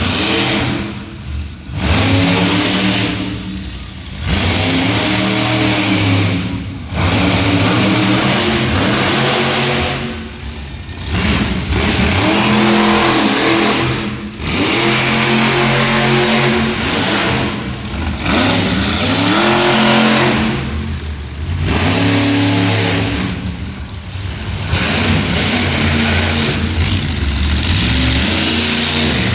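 Monster truck engine revving hard again and again, its pitch climbing and falling about every two seconds with brief lulls between bursts.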